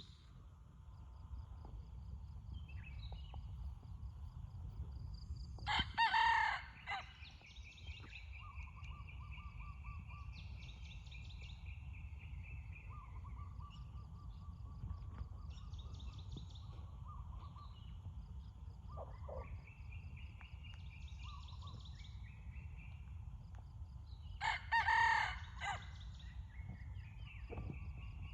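Red junglefowl cock crowing twice, two short crows about 19 seconds apart, with other birds giving fainter falling whistled calls in between over a steady low rumble.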